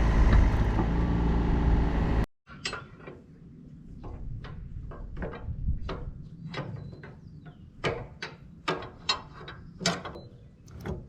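A steady machine drone with a low rumble, which stops abruptly after about two seconds. Then come a dozen or so sharp, irregularly spaced metal clicks and clanks of tools working on the excavator's cylinder and pins.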